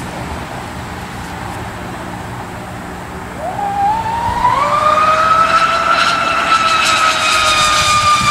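RC hydrolift speed boat's motor whining at high revs: the pitch climbs quickly about three seconds in as the boat accelerates, then holds high and steady on a fast pass.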